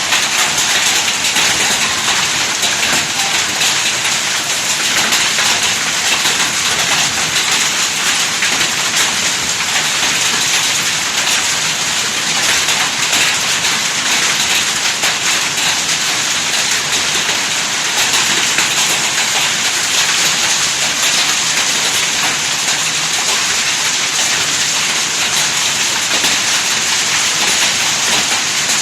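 Hail and heavy rain pelting down in a severe hailstorm: a loud, steady rush of countless small impacts, unbroken throughout.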